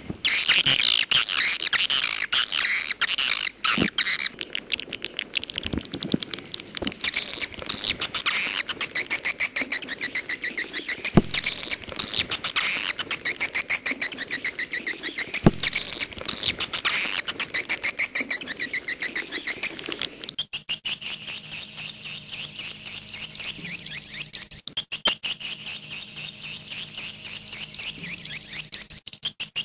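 Swiftlet calls played as a looped recording: a dense run of rapid chirping twitters. About two-thirds of the way in, the sound switches abruptly to a steadier, higher chirping with a faint low hum beneath.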